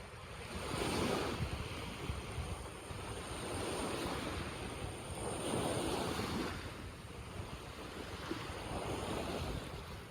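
Sea waves washing onto the shore, swelling and fading in surges a few seconds apart, with wind rumbling on the microphone.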